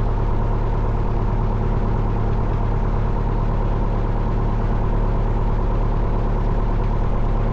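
Four-cylinder Lycoming engine of a 1972 Cessna 172 Skyhawk idling steadily on the ground while it warms up, a constant low drone that does not change.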